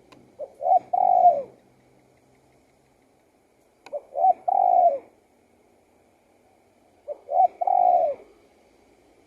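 Spotted dove cooing: three phrases about three seconds apart, each two short notes running into a longer coo.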